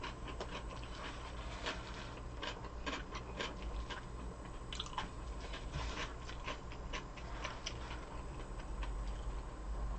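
Close-miked eating: a person chewing food with many small, irregular clicks and smacks, several a second, over a steady low hum.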